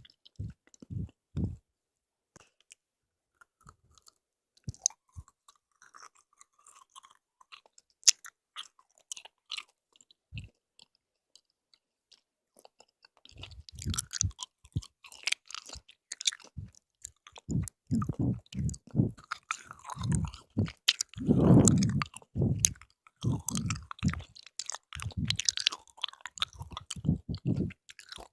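Close-miked chewing of jelly candy: sticky, wet mouth sounds and bites. Only scattered small clicks at first, then dense, irregular chewing from about halfway.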